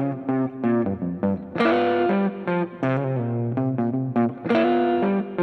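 Guitar riff played with an effects unit and some distortion, over bass guitar: a repeating figure of plucked notes.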